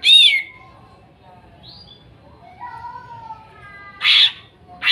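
Cucak ijo (green leafbird) calling: a loud arched whistled note at the start, softer warbling notes in the middle, and a harsh, loud call about four seconds in, followed by another sharp call at the end.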